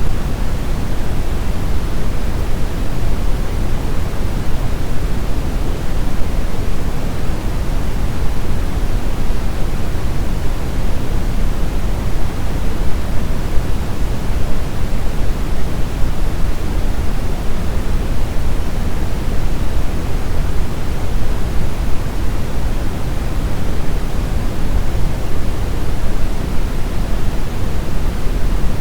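Brown noise: a steady, even rumbling hiss weighted heavily toward the low end, with no changes or events.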